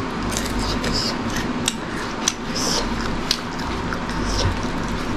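Close-up chewing of hard, crunchy food, heard as scattered crisp crunches and clicks over a steady low hum.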